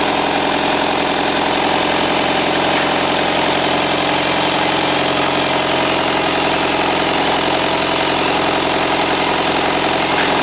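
Isuzu 4BD1-T four-cylinder turbo-diesel engine idling steadily.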